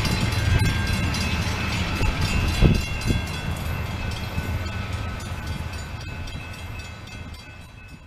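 A train running on the track, its low rumble fading steadily as it draws away, with two sharp knocks about half a second apart near three seconds in.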